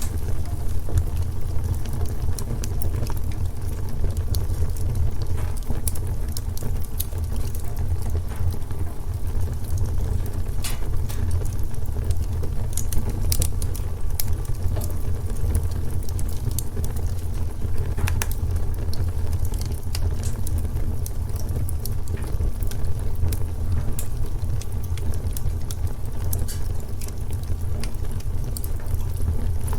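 Wood fire in a fireplace crackling, with scattered sharp pops over a steady low rumble of the flames; a few pops stand out louder than the rest.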